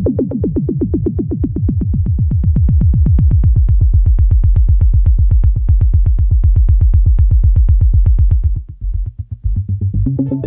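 Roland JD-XA synthesizer playing a fast, evenly repeating sequence of notes over a deep bass line. It thins out and turns choppy about a second and a half before the end.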